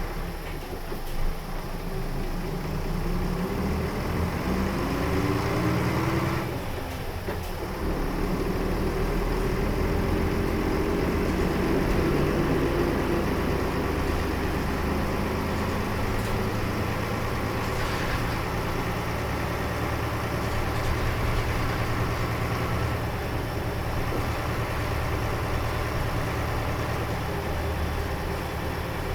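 Diesel engine of a 2004 Nissan Diesel KL-UA452KAN city bus heard from inside the cabin as the bus pulls away: the engine note rises, drops briefly at a gear change about six seconds in, rises again, then settles to a steady cruise.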